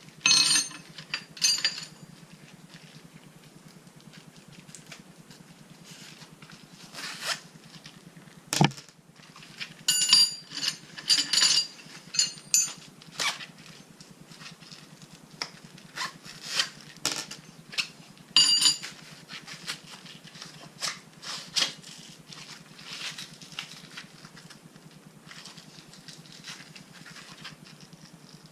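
Metal bolts and small washer pieces being handled on a bench: scattered clicks and light rattles, with a few clusters of ringing metallic clinks.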